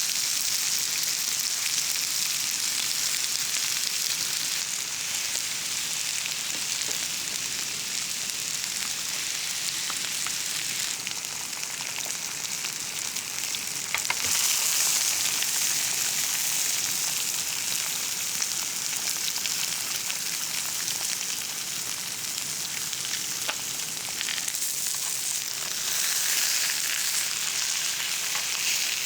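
Food frying in oil in a pan, sizzling steadily with light crackles; the sizzle grows a little louder about halfway through.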